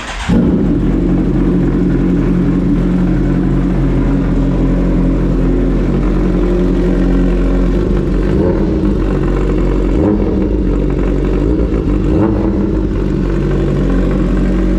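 Kawasaki Ninja 1000's inline-four engine running at a steady idle, loud, coming in suddenly at the start, with a couple of light blips of the throttle in the second half.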